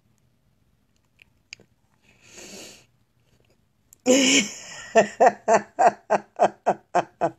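A man laughing hard in a rapid run of 'ha' bursts, about four a second, each falling in pitch, starting about five seconds in after a loud breathy outburst.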